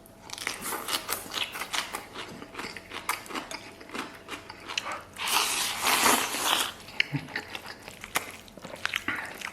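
Close-up eating sounds: many small clicks and taps of utensils on a bowl, with chewing, and a louder rustling, scraping stretch about five seconds in.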